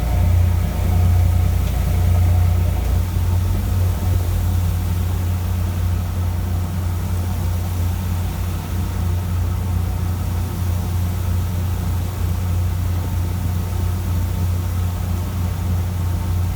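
Fishing boat's engine running steadily, a deep continuous hum; its lowest rumble eases slightly about three seconds in.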